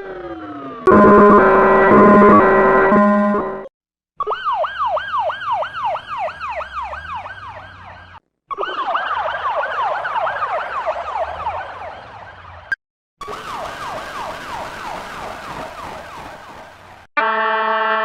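A run of short emergency-vehicle siren clips with brief silent gaps between them. A falling wail ends, then comes a loud steady chord of several tones, then three yelping sirens, each sweeping rapidly up and down over and over. Near the end a tune of steady held notes begins.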